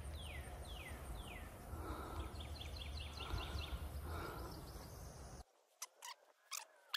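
Outdoor ambience with a bird calling: a run of short whistles, each falling in pitch, then a quick series of chirps. The background cuts off abruptly about five and a half seconds in, leaving a few faint clicks.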